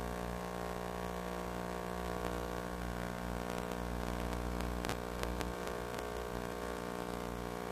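Steady buzzing hum made of many fixed tones, with static hiss over it and a few faint clicks about five seconds in.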